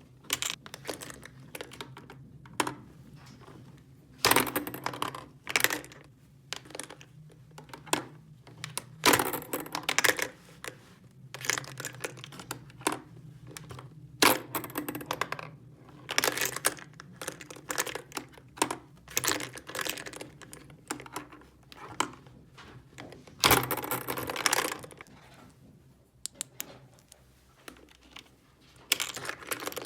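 Small hard plastic toy pieces being handled, clicking and clattering against one another, with a few louder clatters and short rattles scattered through.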